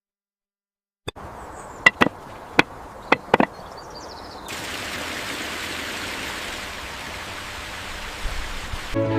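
Several sharp knocks or clicks, then a steady even hiss starting about four and a half seconds in.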